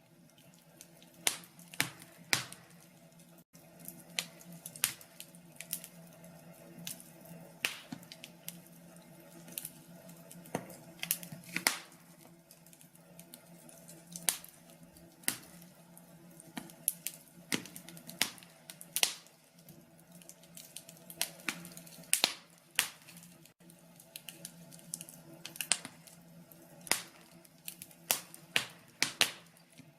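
Wood fire crackling in a fireplace, with irregular sharp pops and snaps at uneven intervals, some much louder than others, over a faint steady low hum.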